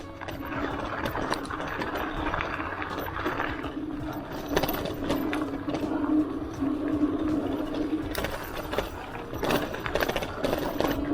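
Hardtail mountain bike being ridden along a dirt trail: a steady hum with scattered clicks and rattles from the bike over bumps.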